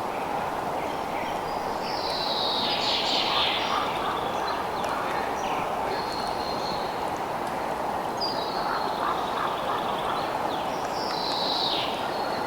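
Outdoor nature ambience: a steady hiss of background noise with high-pitched animal calls over it, including a call that sweeps downward about two seconds in and again near the end.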